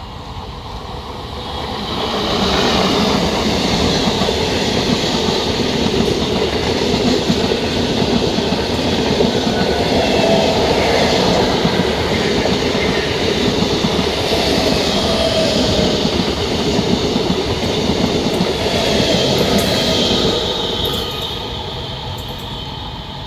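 MEMU electric multiple-unit train passing at speed close by: a steady rush of steel wheels running on the rails. It builds about two seconds in as the train reaches the spot, with a few brief squealing tones along the way, and falls away near the end as the last coach goes past.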